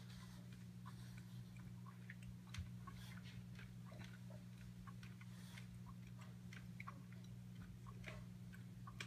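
Faint chewing of a mouthful of chicken, which is a little chewy: irregular soft mouth clicks over a steady low hum.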